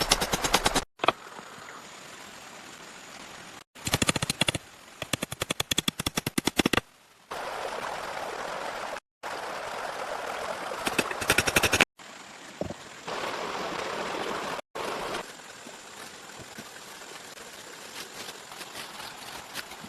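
Runs of rapid sharp knocks, many a second, alternating with a steady rush of running water. The sound breaks off abruptly several times.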